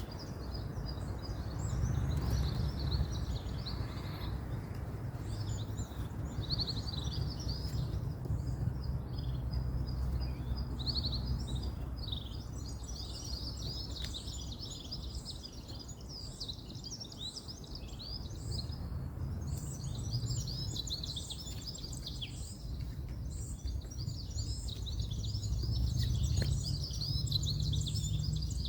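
Many small birds chirping at once in a dense, continuous chorus, over a low rumble of distant road traffic that swells and fades.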